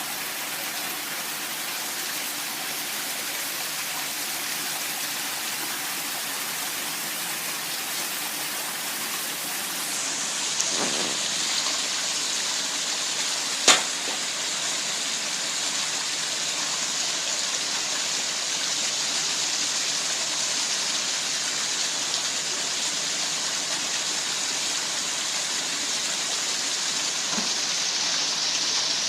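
Steady rush of running or falling water, with a single sharp click about fourteen seconds in.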